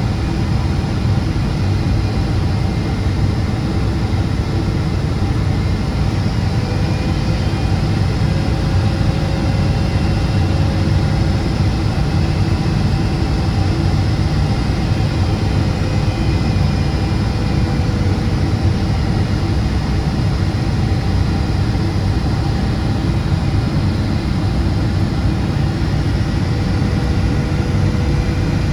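Steady cabin roar of a Boeing 777-200ER with GE90-92B turbofans, on approach with landing flaps extended: a deep rush of airflow and engine noise, with faint engine tones wavering slightly in pitch.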